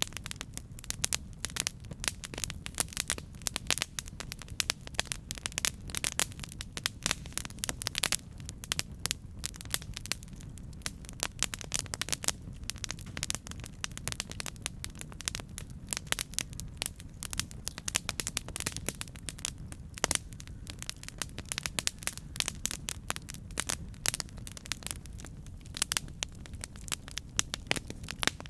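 Wood campfire crackling: a constant scatter of sharp pops and snaps of burning wood over a low, steady rumble of the flames.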